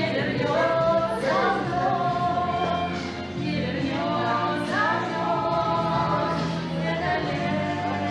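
Several voices singing a song together over a steady instrumental accompaniment.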